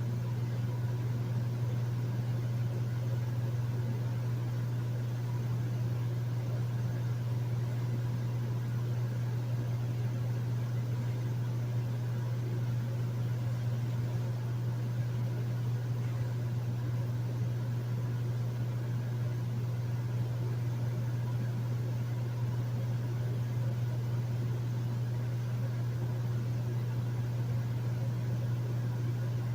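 Hotel room air conditioner running steadily: a strong, even low hum under a soft rush of air, with a few faint steady tones above it.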